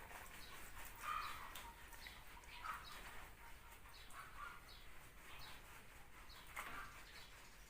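Birds chirping faintly in the background, with short calls repeating about once a second, and one faint click near the end.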